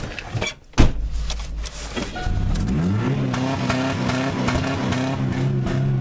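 A car door thumps shut, then the old car's engine idles low before being revved up over about a second and held steady at high revs.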